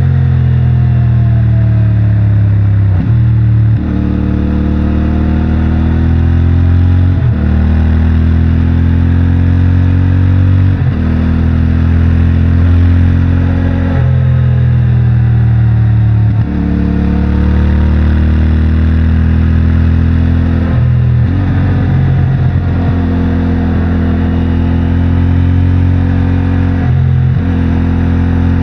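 CFMOTO 450MT parallel-twin engine through its stock exhaust, under way on twisty roads. Engine speed rises and falls with the throttle, and the note breaks off suddenly every few seconds, about nine times, as gears change.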